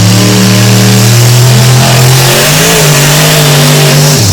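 Mud bog truck engine running loud at high revs under full throttle, its pitch stepping up twice. The sound stops abruptly near the end.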